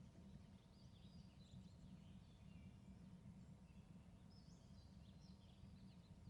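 Faint, scattered bird chirps and twitters over a steady low background rumble.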